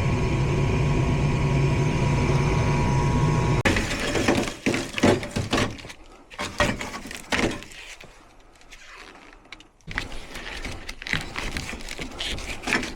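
Gas furnace running steadily with a hum, its burners staying lit now that the dirty flame sensor has been sanded clean. About four seconds in the running sound stops abruptly, and irregular knocks and clatter follow.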